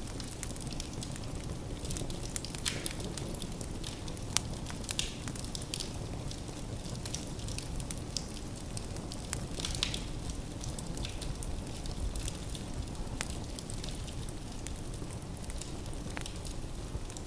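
Firewood burning in a fireplace: a steady low rumble of flame with irregular sharp crackles and pops from the logs.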